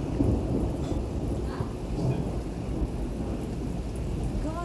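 Thunder rumbling low and steady through heavy rainfall.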